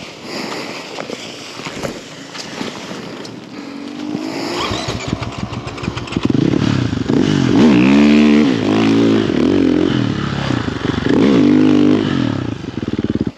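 Snow bike's dirt-bike engine revving hard in repeated swells, pitch rising and falling, as the bike bogs in deep snow, stuck. The engine cuts off suddenly near the end.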